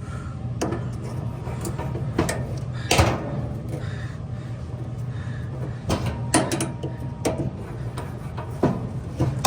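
Irregular clicks, knocks and clatters of dryer parts being handled while the drum support rollers are worked on, over a steady low hum; the sharpest knock comes about three seconds in.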